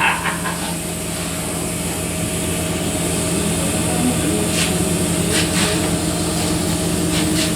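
An engine-driven machine running steadily at a constant speed, a low even drone with a steady hum. A few brief, faint hisses come near the middle and again near the end.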